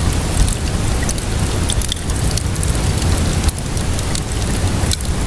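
Steady rainfall hiss with a low rumble, mixed with a wood fire crackling and popping in many short sharp snaps.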